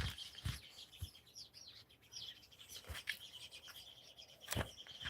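Small songbirds chirping and twittering continuously in high, quick calls, with a few sharp clicks or knocks scattered through.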